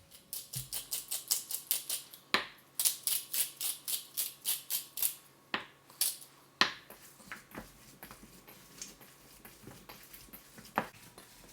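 Salt and pepper being shaken onto the filling: a quick run of rhythmic rattling strokes, about five a second, lasting about five seconds. A few sharp knocks follow.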